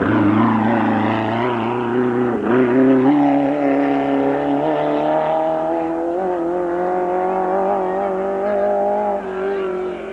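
Racing car engine at high revs. Its note falls over the first second, dips briefly about two and a half seconds in, then holds a steady, slightly wavering note.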